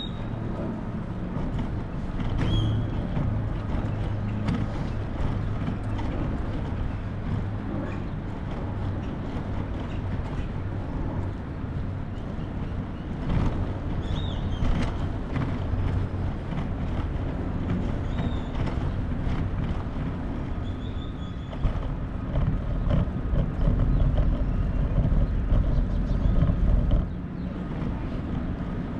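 City street traffic: vehicle engines running with a steady low hum, a few short high squeals, and a louder low rumble from about 22 to 27 seconds in.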